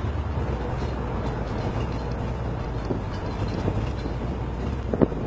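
Big-block Chevy 454 V8 running steadily at an even speed, with road noise, heard from inside a pickup's cab. A single sharp click comes about five seconds in.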